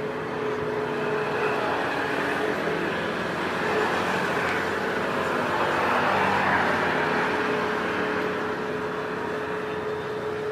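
A vehicle passing: its noise rises to a peak about six seconds in and then eases, over a steady hum.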